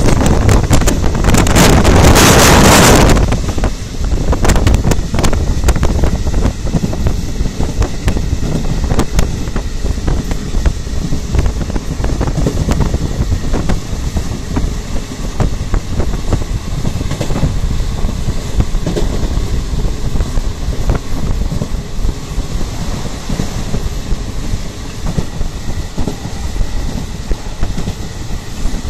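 Moving passenger train heard from inside the coach: a steady rumble of the wheels on the rails with irregular clicks, and wind buffeting the microphone. It is loudest and fullest for the first three seconds, then settles to a steadier, somewhat quieter rumble.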